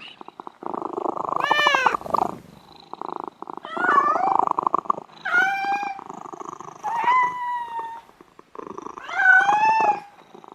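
Cat meowing and yowling: about five drawn-out calls, each rising and falling in pitch, with short gaps and rough rasping stretches between them.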